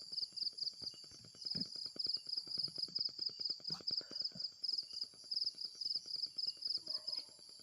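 Steady high-pitched chirping in a regular rhythm, several chirps a second, typical of night insects such as crickets, over a faint rapid low clicking and a couple of soft knocks.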